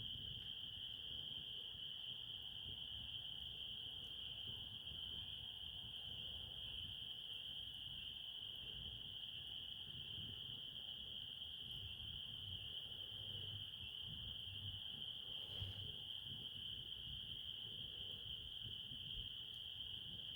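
A night chorus of crickets trilling steadily on one high pitch without a break, over a faint low rumble.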